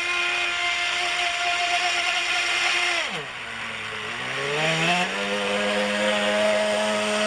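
Small model glow engine of a radio-controlled boat running at high revs, then throttled back sharply about three seconds in to a low idle. It picks up again over the next two seconds and holds a steady middling speed.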